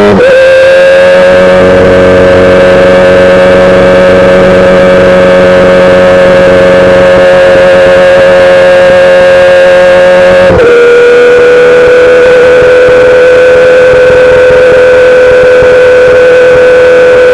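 2008 Yamaha R6's inline-four engine running through a full SC-Project exhaust, holding a steady, high engine note under way. About ten seconds in the pitch drops abruptly to a slightly lower note, which then holds steady.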